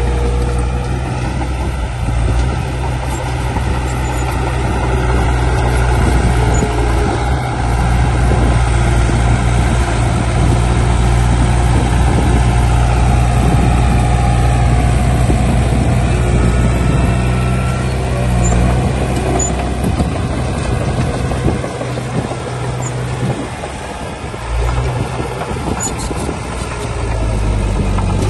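Heavy diesel machinery engines running with a steady low drone, easing off for a few seconds about three quarters of the way through before picking up again.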